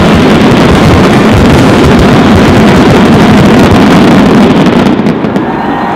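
Aerial fireworks shells bursting in a dense barrage, heard as one very loud continuous rumble of overlapping reports that dies away about five seconds in: the closing barrage of the show.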